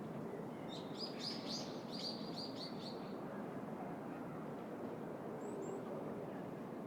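A small songbird sings a quick run of high chirping notes lasting about two and a half seconds, followed by two faint high chirps, over a steady low background rumble of city traffic.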